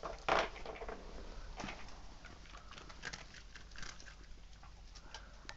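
A dog working at a treat-finding game: faint, irregular taps, scratches and small knocks as it paws and noses about for the treats.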